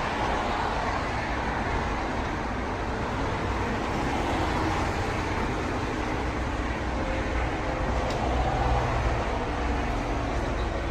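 Lexus ES300's V6 engine running steadily.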